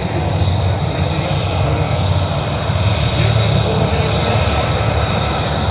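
F-35C Lightning II's single Pratt & Whitney F135 turbofan running at taxi power. It makes a steady low rumble with a high whine held on top.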